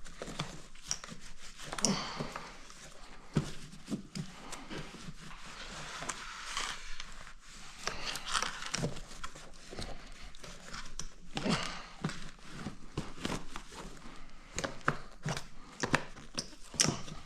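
Wiping and rubbing dust off the plastic airbox cover by hand, in repeated short rustling strokes, with scattered sharp clicks and taps from handling the parts.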